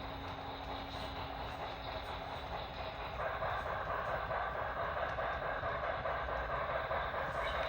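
HO scale model steam locomotive running with its onboard DCC sound decoder playing steam locomotive sounds through a small speaker, mixed with the rolling noise of the train on the track. The sound gets louder about three seconds in.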